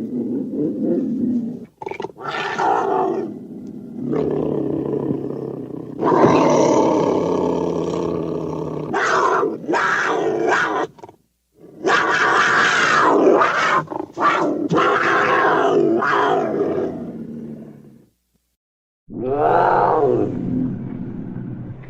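A series of werewolf growl and roar sound effects: several separate rough roars of a few seconds each, with short silences between. Near the end comes a call that rises and falls in pitch.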